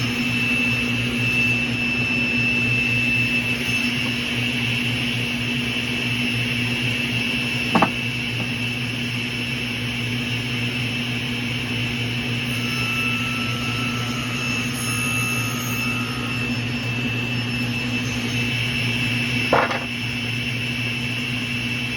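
Electric shop machine motor running steadily with a constant hum and high whine, with two short knocks, one about eight seconds in and one near the end.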